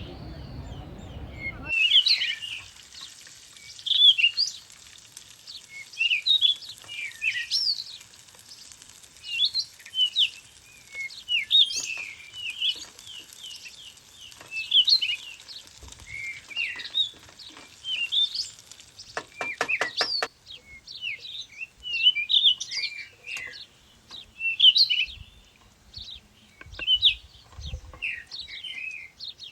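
Songbirds singing and chirping, short bright phrases repeating every second or two over a steady hiss. A quick run of clicks or a rapid trill comes about two-thirds of the way through.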